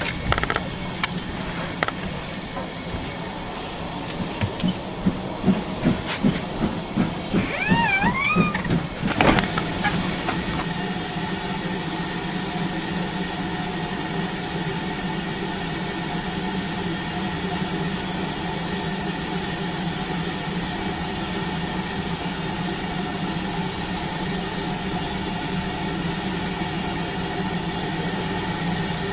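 Steam locomotive at work: a run of rhythmic beats and a brief warbling tone, then, about a third of the way in, a sudden steady hiss of steam over a low hum that carries on.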